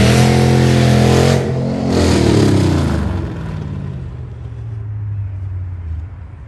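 Car engine accelerating hard at high revs, with a brief drop about a second and a half in, like a gear change, before pulling again. It then falls in pitch and fades as the car drives off.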